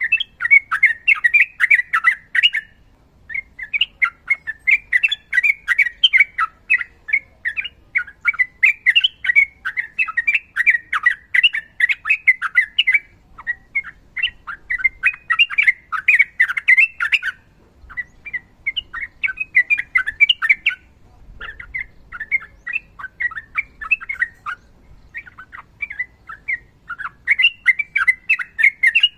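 Yellow-vented bulbul (trucukan) singing in long rapid chattering runs: quick notes in dense phrases a few seconds long, broken by short pauses.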